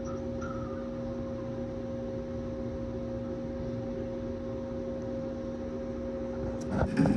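A steady hum at two fixed pitches over a low background rumble, with a few light knocks and clatter near the end.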